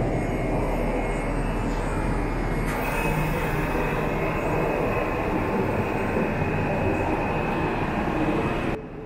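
Local train running by at close range: a steady rumble of wheels on rail with a thin high steady tone over it, cutting off abruptly near the end.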